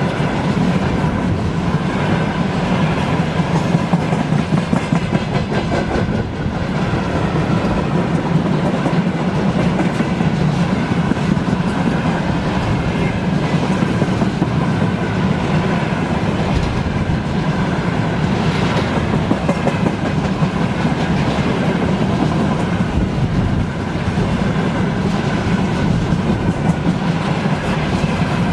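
Freight train wagons rolling past, their wheels clacking over the rail joints in a steady, continuous clatter.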